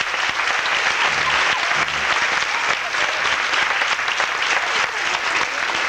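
Audience applauding steadily after a girls' quartet finishes singing, dense clapping throughout.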